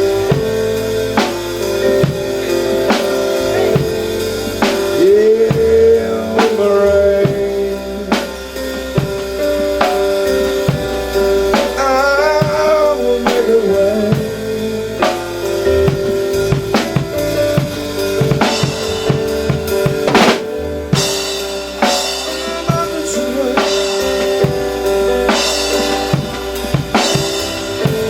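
Live gospel church music: a drum kit with bass drum, snare and rimshots keeps a steady beat over held chords and bass.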